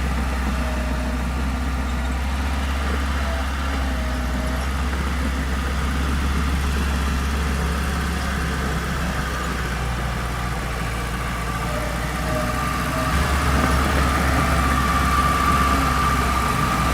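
Diesel engine of heavy earthmoving machinery running steadily, growing louder about two-thirds of the way through, with a high whine that strengthens near the end.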